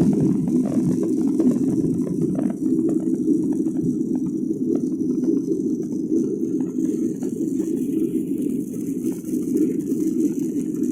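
Boeing 737-800 cabin noise during takeoff: a steady low drone of the CFM56 jet engines and airflow heard inside the cabin, with light irregular clicks and rattles from the cabin fittings.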